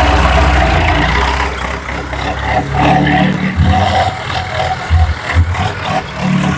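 Tractor engine running, its low throb swelling and easing as it is revved.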